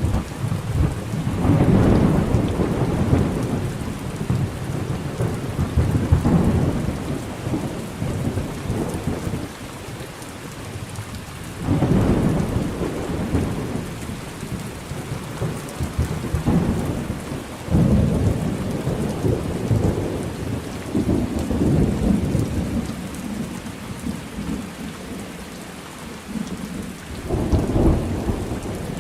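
Thunderstorm with steady rain and rolling thunder. Low rumbles of thunder swell up again and again, starting sharply about 2 seconds in, near 12 and 18 seconds, and again near the end, each fading off slowly over the rain.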